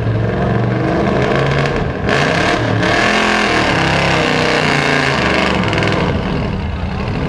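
Engine of a 1979 Ford modified pulling truck running hard at high revs. About two seconds in it gets louder and fuller, and near the middle its pitch dips and then climbs again.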